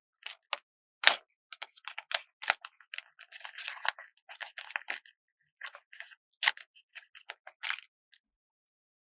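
Paper stickers being peeled from their backing sheet and handled close to the microphone: a run of crisp crackles, rustles and small sharp snaps, with a loud snap about a second in and another about six and a half seconds in.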